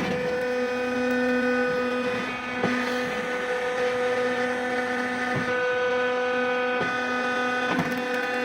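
Hydraulic wood splitter and chipper running steadily with a constant mechanical hum, broken by a few short knocks.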